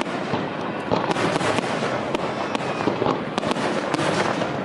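Fireworks going off: a dense, continuous crackle of many sharp cracks in quick succession.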